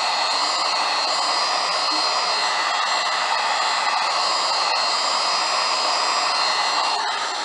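Steady whir of a hot-air blower running continuously, with a faint high whine over the rushing air, as used to warm a phone's glued screen and soften the adhesive.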